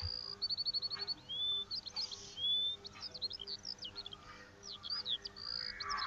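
Small songbirds chirping and twittering: short high chirps, a quick trill near the start and a few rising whistles, over faint steady low tones.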